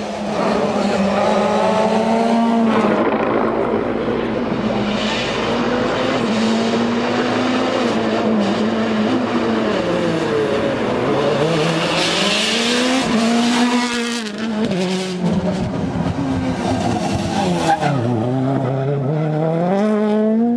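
World Rally Car turbocharged 1.6-litre four-cylinder engine at full effort on a special stage, its pitch climbing hard and dropping back several times as it shifts and lifts for corners. A broad hiss rises about twelve seconds in.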